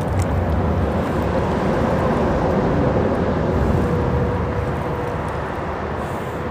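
Freeway traffic rumbling on the bridge overhead, a steady low drone that swells slightly and then eases, with a faint steady whine in the middle.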